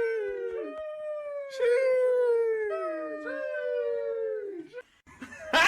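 A dog howling in a series of long notes, each sliding slightly down in pitch; the howls stop nearly five seconds in. Just before the end a loud, sudden burst of noise starts.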